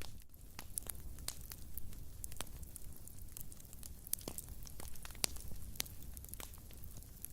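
Wood fire in a fireplace burning, with irregular sharp crackles and pops over a low steady rumble of the flames.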